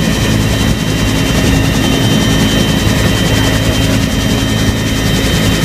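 Bell UH-1 "Huey" helicopter running. Its turbine engine and rotor make a loud, steady drone, with several low steady tones and a thin high whine.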